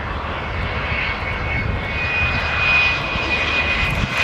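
Aircraft engine noise: a steady rushing drone with a high whine, growing somewhat louder about halfway through.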